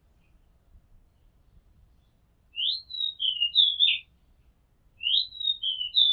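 Oriental magpie-robin singing: two matching whistled phrases of a few sliding notes each, the first about midway through and the second near the end.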